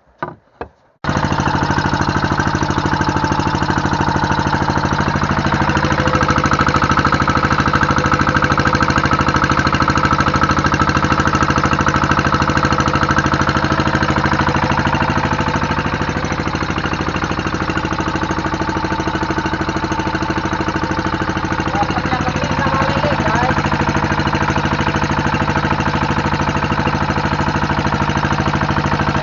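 Fishing boat engine running loudly and steadily with a fast, even knocking beat, starting suddenly about a second in after a few short knocks.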